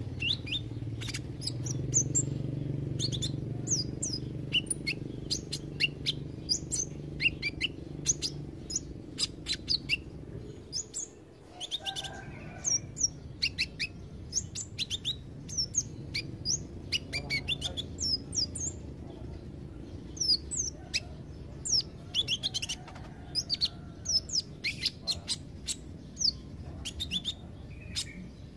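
Kolibri ninja (a sunbird) singing a fast, high twittering run of short, sharp chirps, with a brief pause about eleven seconds in. A low hum sits under the first third.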